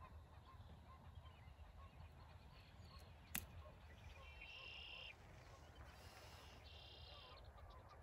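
Two short bird calls, each under a second and about two seconds apart, in the second half. A single sharp click comes a little before them, and faint soft pips repeat a few times a second throughout.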